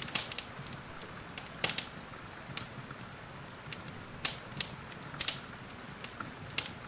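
Wood fire in a fireplace crackling, with about seven sharp pops at irregular moments, over a steady hiss of rain.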